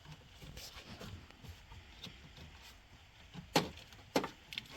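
Two sharp clicks a little over half a second apart, near the end, from parts being handled and rotated into place, over faint rustling.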